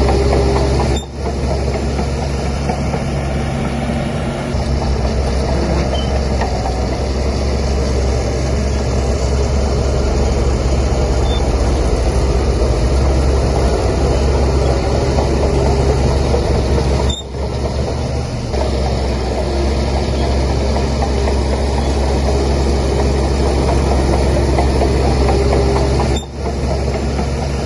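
Bulldozer's heavy diesel engine running steadily with a deep drone. The sound dips out briefly three times, near the start, about two-thirds of the way through and near the end.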